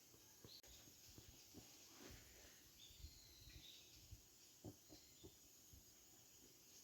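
Wood campfire crackling faintly, with scattered soft pops and snaps at irregular intervals.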